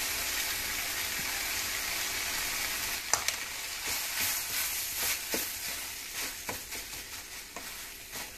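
Peas and potato masala sizzling in an aluminium kadai as mashed potato is stirred in with a wooden spatula; from about three seconds in, scattered taps and scrapes of the spatula against the pan.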